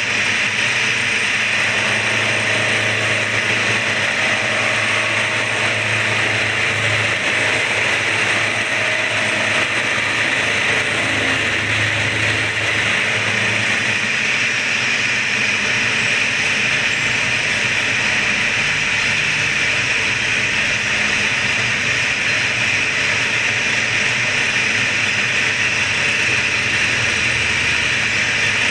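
Yamaha V80 engine block face being surfaced flat against an abrasive, a steady rasping grind with no break.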